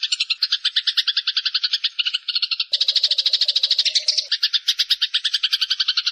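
Recorded animal calls from a songbird training (mastering) track: a fast, regular pulsed trill of about ten pulses a second, with a second, lower buzzing call joining about halfway through.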